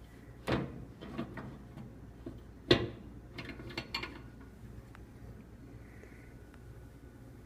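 A few sharp clicks and knocks of a glass jar and kitchen things being handled, the two loudest about half a second and just under three seconds in, with smaller ticks between three and four seconds.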